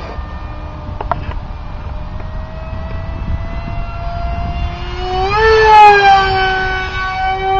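Electric brushless motor and 6x4 propeller of a foam RC jet in flight: a high, siren-like whine. It slides slowly down in pitch, then bends up and grows loudest about five seconds in as the plane comes closer.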